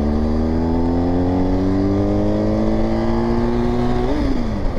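BMW GS motorcycle engine pulling in gear, its note rising slowly as it accelerates, then the throttle is rolled off a little after four seconds and the pitch drops. A steady low wind rumble runs underneath.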